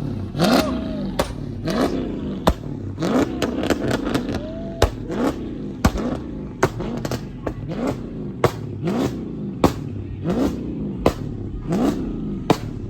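Car engine revved again and again in quick throttle blips, its pitch sweeping up on each blip, with sharp exhaust pops cracking at a steady rhythm, about one every half second or so.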